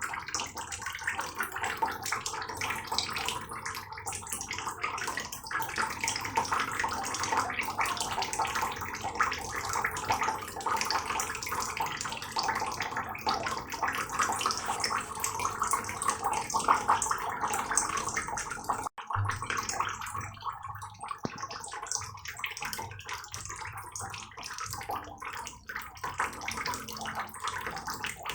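Heavy rain falling steadily: a dense spatter of many separate drops splashing. It breaks off for an instant about two-thirds of the way through, then goes on with a faint low hum underneath.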